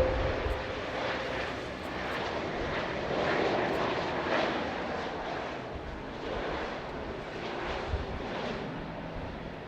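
Jet airliner engines running, a steady rushing noise that swells about three to four seconds in and then eases off.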